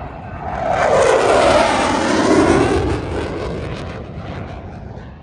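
Boeing P-8 Poseidon's twin turbofan engines on a low flypast: the jet noise swells to a loud rush about a second in, its pitch falling as the aircraft passes, then fades away.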